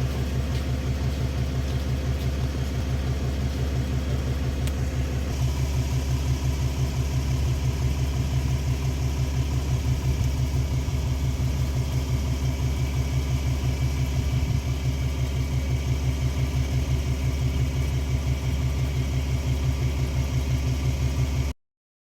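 A motor vehicle engine runs steadily with an even, rapid low throb. It stops abruptly near the end.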